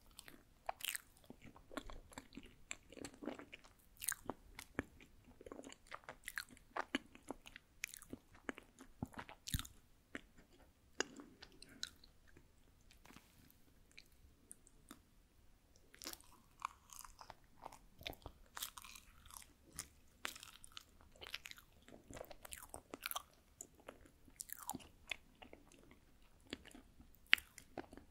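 Close-miked chewing of a soft rice-cake dessert made from Jeju omegi-tteok, with many small wet mouth clicks and smacks. The chewing thins out for a few seconds near the middle, then picks up again.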